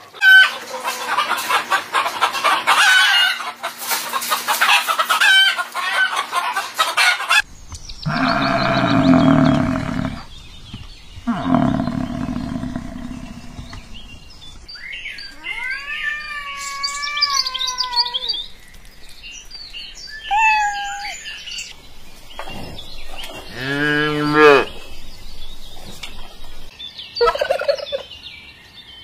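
A series of separate poultry calls: chickens clucking, a rooster crowing and a turkey gobbling with a rapid warbling rattle.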